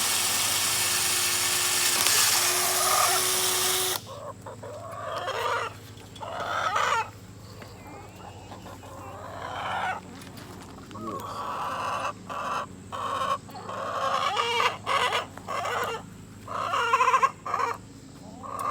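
Chickens clucking and squawking loudly over and over, in calls of half a second to a second and a half. A steady rushing noise under the first few seconds cuts off suddenly about four seconds in.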